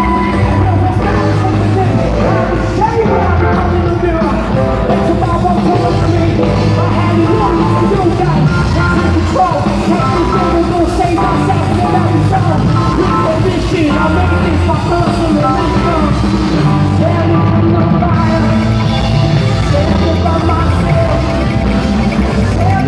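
Loud live rock music: a band playing with a vocalist singing over a steady beat.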